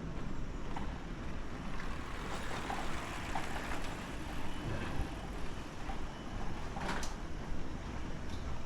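Street traffic: motor vehicles running past, with a short hiss about seven seconds in.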